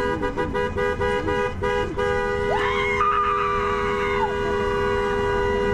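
Vehicle horn sounding in a convoy's salute to roadside supporters: a two-note horn held long, broken by a few quick toots in the first two seconds. A second, higher tone rises and holds briefly about halfway through.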